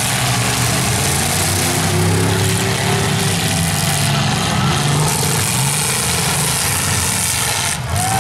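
Engines of several demolition-derby cars running and revving unevenly, over a steady wash of noise.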